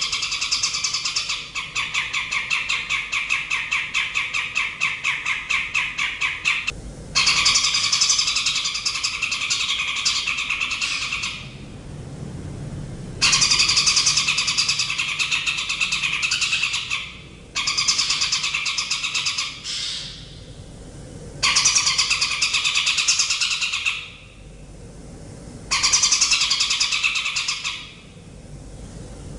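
A songbird singing its song in bursts of a few seconds each, about six in all, with short pauses between. Each burst is high, dense and rapid, and the first runs into a fast, even trill.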